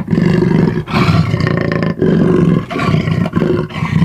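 Big-cat roar sound effect for a cheetah: a loud, rough roar repeated in pulses about once a second.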